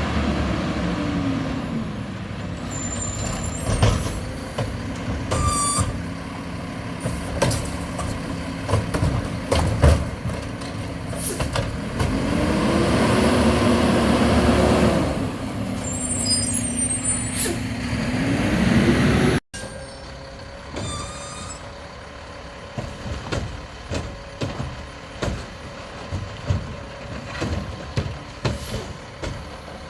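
Mack LEU garbage truck engine revving up and down several times, with clanks and short bursts of air hiss, typical of the truck's hydraulics driving its can-lifting arm. About two-thirds through the sound drops suddenly to a quieter stretch of knocks and clatter.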